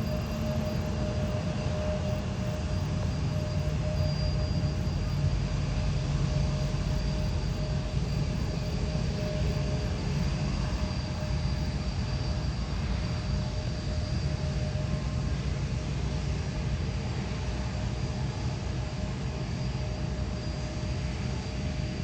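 Jet airliner engines running steadily: a low rumble with a steady high whine over it.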